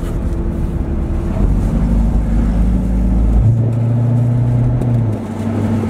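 C7 Corvette's 6.2-litre V8 running as the open-top car drives along, with wind on the microphone. The engine note steps up to a stronger, steady pitch about three and a half seconds in, then drops a little about five seconds in.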